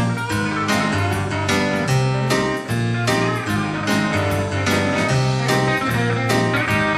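Live rockabilly band playing an instrumental break, with guitar to the fore over a walking bass line and steady drum beat.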